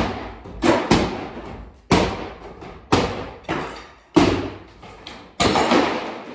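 Small sledgehammer striking a divider wall in repeated heavy blows, about eight in all, some coming in quick pairs, each trailing off over a fraction of a second.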